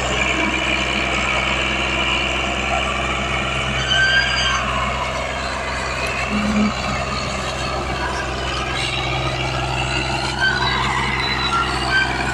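Al-Ghazi diesel tractor engine running steadily, with a few brief high squeaks over it.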